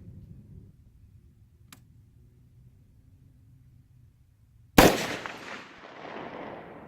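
A single rifle shot about five seconds in: one sharp crack followed by a long, rolling echo that dies away over about two seconds.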